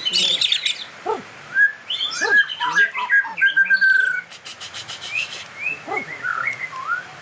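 White-rumped shama (murai batu) singing a varied song of clear whistles, slurred glides and quick harsh rattles, with one long held whistle in the middle.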